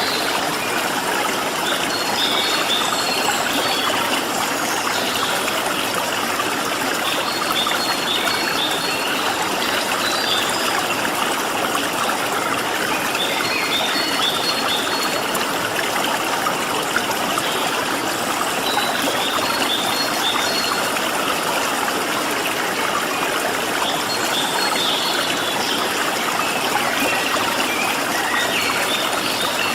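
Steady rush of flowing water, like a stream. Over it, a small bird gives short high chirping phrases that repeat about every five or six seconds.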